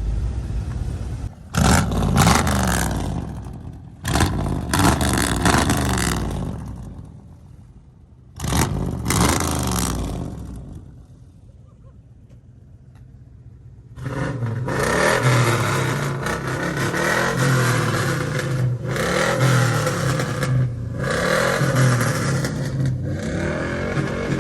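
Truck engine revved hard in three short bursts, each falling away, then a lull and a steady loud engine running from about the middle on.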